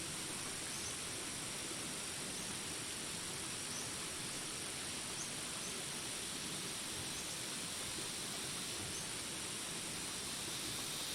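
Jungle ambience: a steady rain hiss with insects trilling high and constant. Faint short chirps come every second or so.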